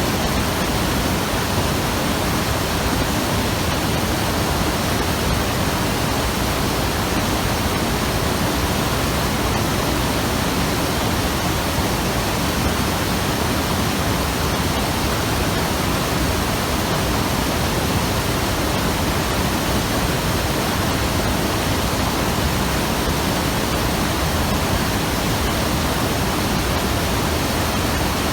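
Mountain river rushing steadily over rocks, a dense even roar of flowing water.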